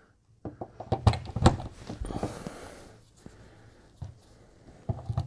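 A run of sharp clicks and knocks as power cords are handled and plugged in, with a short breathy rustle about two seconds in and a few more clicks near the end.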